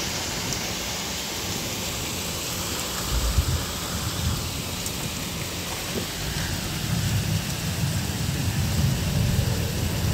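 Heavy rain pouring steadily during a thunderstorm. Low rumbles of thunder come through it, one short one about three seconds in and a longer one through the second half.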